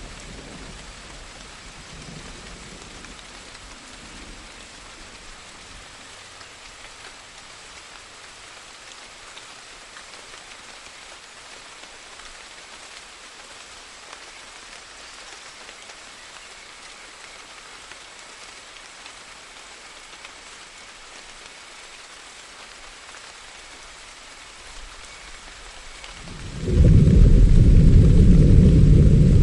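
Steady rain falling, with a loud, low rumble of thunder breaking in suddenly near the end.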